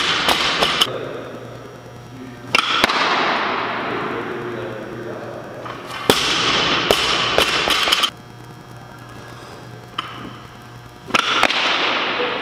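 Loaded barbell with bumper plates dropped on a lifting platform, several times: sharp clanks, then plate rattle and ringing that dies away over a second or two.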